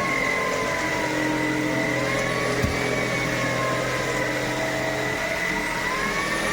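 Tineco A30S cordless stick vacuum running, a steady motor whine over a rushing hiss, its pitch sagging and recovering slightly as the load changes. A single short click about halfway through.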